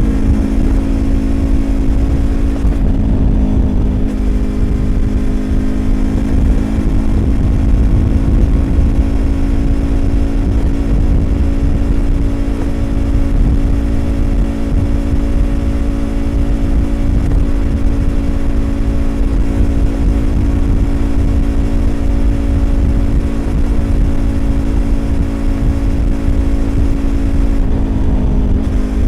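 Yamaha YZF-R25's 250 cc parallel-twin engine through a Prunus aftermarket exhaust, running at a steady speed while cruising, with wind and road rumble underneath. The engine note holds one pitch, shifting slightly about three seconds in and again near the end.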